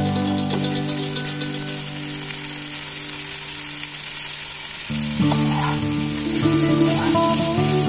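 Potato and cauliflower pieces sizzling in hot oil in a nonstick pan as they are stirred with a wooden spatula, a steady hiss, over background music whose notes change about five seconds in.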